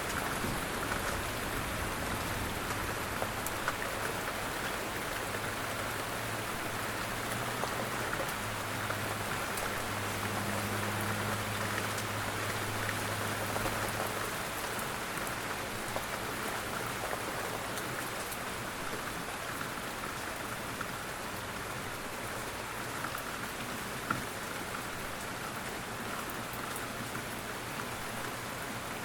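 Steady rain falling, a constant hiss with the patter of many individual drops.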